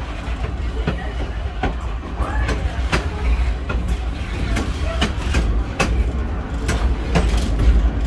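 A train car rolling along the track: a steady low rumble broken by sharp clicks of the wheels over the rail joints, about one a second.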